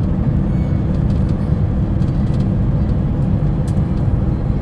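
A van driving on the road, with a steady low engine and road rumble.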